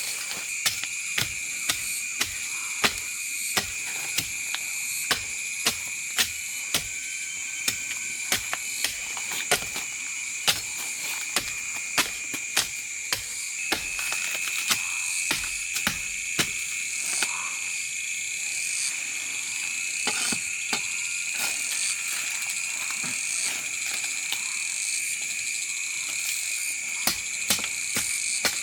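Steady high-pitched insect chorus with many sharp clicks or knocks, about one or two a second.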